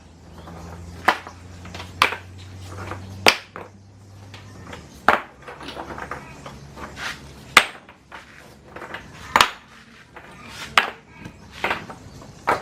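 Irregular sharp knocks, about one a second, each with a brief ring, like hammer or tool strikes on hard material. A low steady hum runs under the first four seconds or so.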